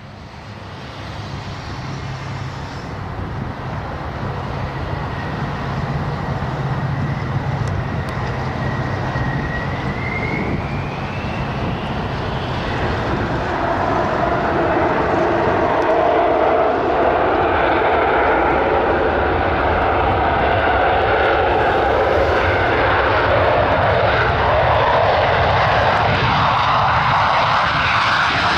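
Fixed-wing aircraft engine noise growing steadily louder over the first half as the aircraft approaches, then holding loud, with a thin whine that rises in pitch about ten seconds in.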